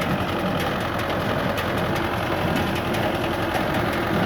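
SIDENA farm tractor engine running steadily, with a light regular ticking about two or three times a second.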